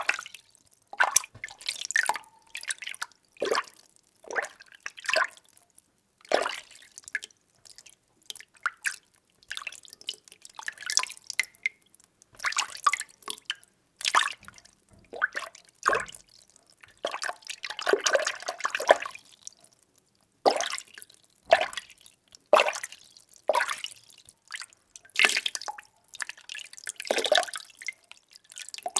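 Water being stirred by hand: irregular sloshes and small splashes about once a second, with a longer swirling stretch in the middle.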